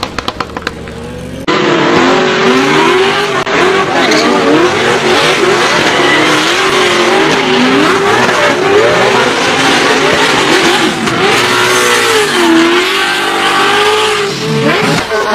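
A racing car's engine under hard throttle, its pitch climbing and falling again and again through gear changes and lifts, with tyre and road noise. It cuts in suddenly about a second and a half in, after a stretch of sharp popping clicks.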